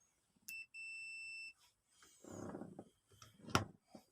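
Multimeter continuity beep on a bread maker's thermal fuse: a short blip, then a steady high beep of under a second, the sign that the fuse conducts and is intact. Then a brief rustle of handling and a sharp click near the end, the loudest sound.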